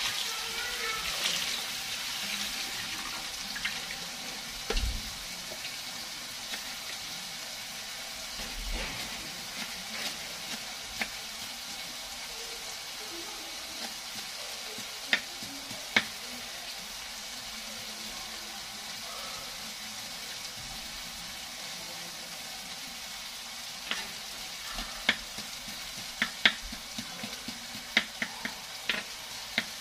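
Food frying in a pan on a gas burner: a steady sizzle, with scattered sharp pops and clicks that come more often near the end.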